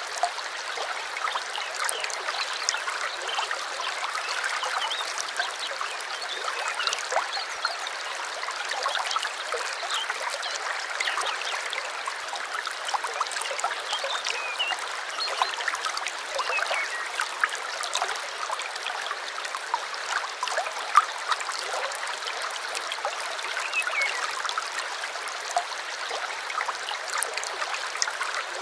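Small stream babbling and trickling steadily, with many little splashes. A few faint bird chirps come in around the middle and again later.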